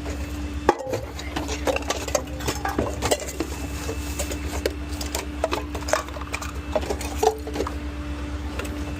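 A small rear-loader garbage truck running with a steady engine drone and hum, while trash in its hopper knocks, clatters and cracks irregularly.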